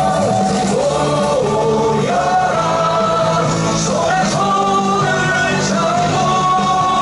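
A song with a singing voice carrying the melody over a loud, steady backing track.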